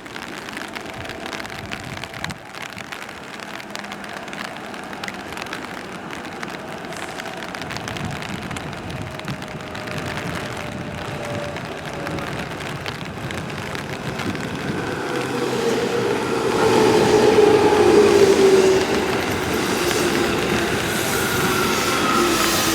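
JR Kyushu electric train pulling into the station and braking. It grows steadily louder as it comes in, and its motor whine falls slowly in pitch as the train slows.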